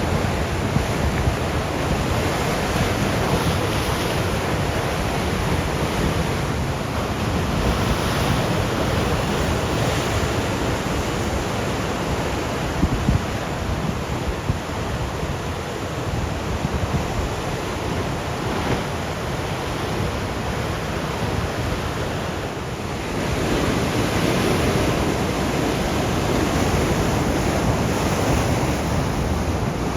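Atlantic surf washing continuously onto the shore in slow, rising and falling swells, louder for a while near the end, with wind rumbling on the microphone.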